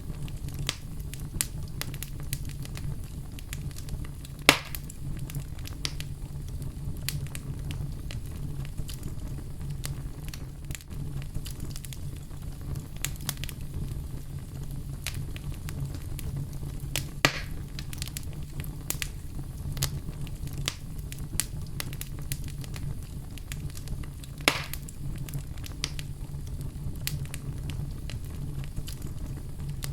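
Wood fire burning in a fireplace: a steady low rumble and hiss with constant small crackles, and three louder pops spread through.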